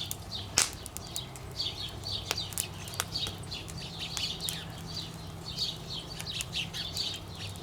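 Wood campfire crackling with scattered sharp pops, while small birds chirp over and over, with a steady low hum underneath.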